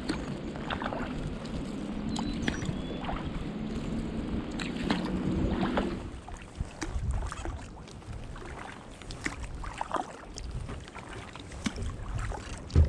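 Sea kayak paddling: a composite-shaft paddle dipping and dripping, with water sloshing along a Wilderness Systems Cape Horn 17 hull. Steadier splashing for about six seconds, then quieter drips, and a single sharp knock near the end.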